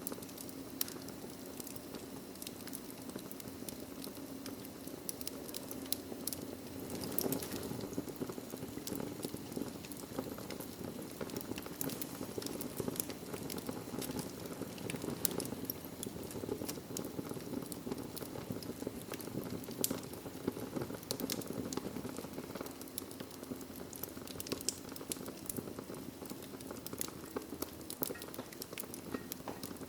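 Wood fire in a fireplace crackling, with frequent sharp pops and snaps over a steady low rush of burning.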